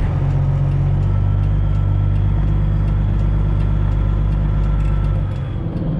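Straight-piped Detroit diesel engine of a Freightliner Classic XL semi truck running steadily at low speed, heard from inside the cab, its note easing a little about five seconds in.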